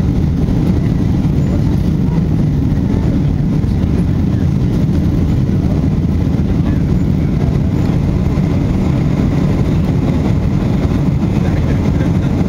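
Boeing 747-400 jet engine and airflow noise heard from inside the passenger cabin: a loud, steady low rumble.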